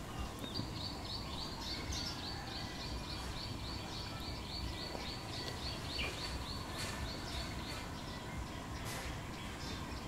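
A wild bird calling: a short high note repeated rapidly, several times a second, starting about half a second in and stopping around eight seconds, with a few other chirps mixed in. A low rumble runs underneath.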